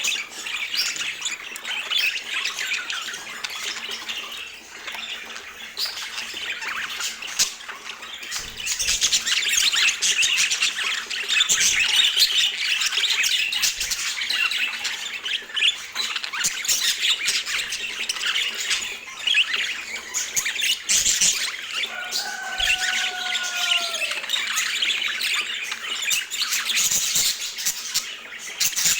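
Budgerigars chattering and squawking continuously in a fast, busy warble, with one drawn-out call that falls in pitch a little past the middle.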